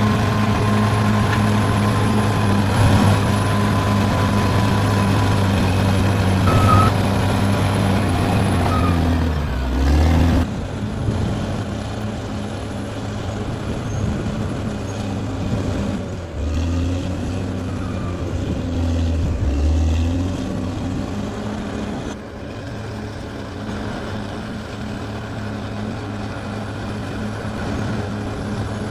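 Caterpillar D6R XL bulldozer's diesel engine running steadily under work. Its low note shifts a third of the way in and again a little past the middle.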